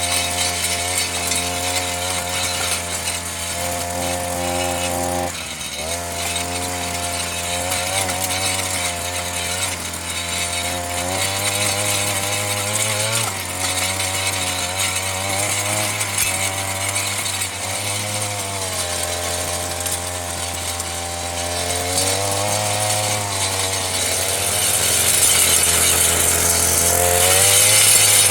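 Earthquake MC33 mini tiller's two-stroke engine running while the tines work soft soil. Its pitch rises and falls as the throttle and load change, with a brief drop about five seconds in, and it gets louder near the end.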